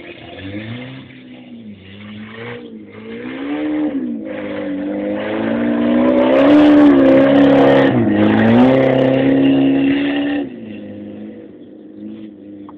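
Car engine revving hard as the car accelerates across a grass field, its pitch climbing and dropping several times with gear changes. It is loudest in the middle as the car comes close, and drops away abruptly about ten seconds in as the throttle is lifted.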